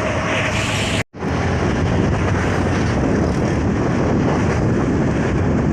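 Truck engine running steadily under load, mixed with wind noise on the microphone. The sound drops out for an instant about a second in, then resumes unchanged.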